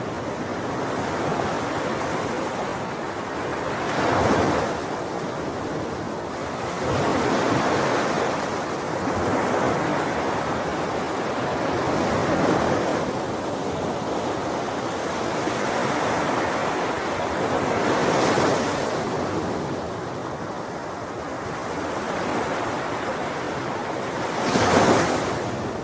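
Ocean waves breaking on a shore in a continuous wash of surf, swelling every few seconds, with one louder break near the end.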